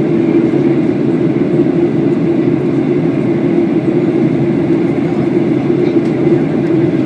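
Steady drone of engine and airflow noise inside the cabin of a Boeing 737-800 airliner, even and unbroken.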